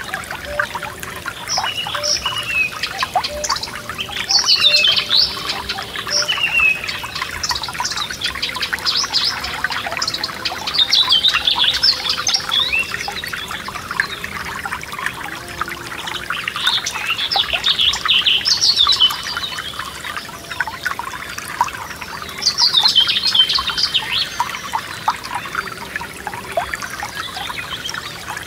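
A forest stream trickling steadily, with a songbird singing over it in four bursts of quick, high chirps and trills a few seconds apart.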